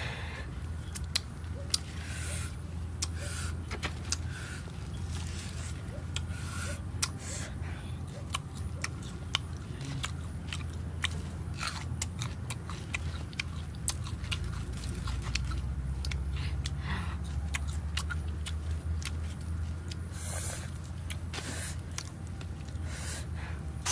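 A person biting and chewing a crisp raw green fruit: many short, crunchy clicks come and go, over a steady low rumble.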